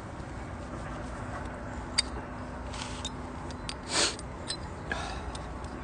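Campfire crackling: scattered sharp pops and clicks, the loudest about two seconds in, with a brief rustle about four seconds in.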